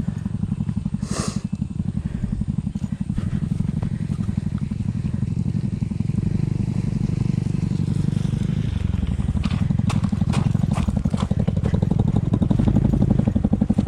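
Honda CT125's single-cylinder four-stroke engine running steadily on the trail, with a brief rustle about a second in and a few sharp clicks about ten seconds in.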